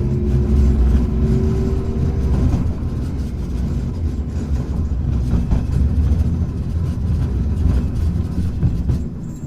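Hankai Tramway tram No. 351 running along the line. The traction motor whine rises until about two seconds in, then gives way to a steady low rumble of wheels on rail, with occasional knocks over rail joints. The sound eases slightly near the end.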